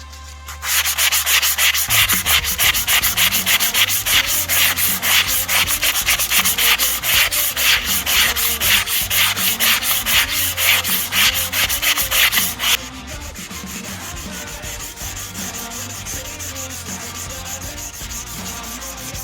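600-grade wet-and-dry sandpaper rubbed by hand in rapid back-and-forth strokes over an oxidized alloy motorcycle wheel, taking the oxidation off the rim. About two-thirds of the way through, the strokes turn much quieter.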